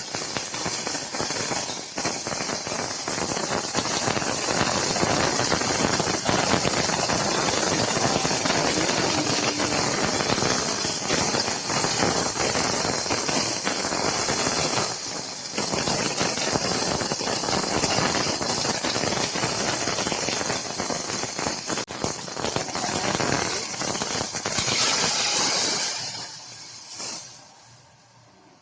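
Food sizzling in hot oil in a pan, with a steady dense crackling hiss. It fades away over the last two seconds or so.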